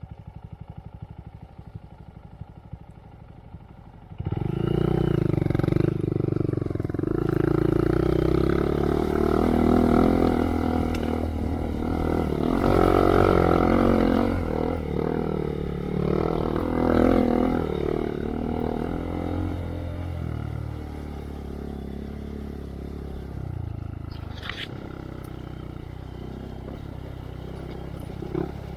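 A 2023 Honda Monkey's single-cylinder engine through a Yoshimura RS3 exhaust. It runs at low revs at first, opens up suddenly about four seconds in, and revs up and down for some fifteen seconds as the bike is ridden hard. It then eases off to a lower, steadier run.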